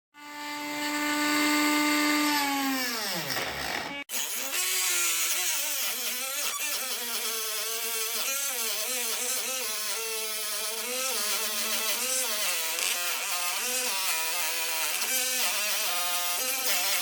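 Electric power tool motor, likely working PVC pipe. It runs at a steady pitch, then winds down to a stop about four seconds in. After that it runs again, its pitch wavering up and down as the load on it changes.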